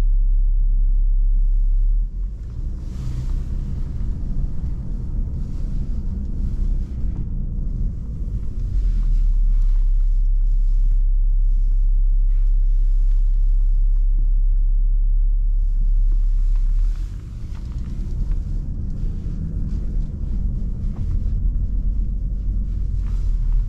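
BMW 530d's 3.0-litre straight-six diesel heard from inside the cabin while driving slowly: a deep, steady low rumble. The rumble eases twice, about two seconds in and again about three-quarters through, as a lighter, busier engine and running noise comes through.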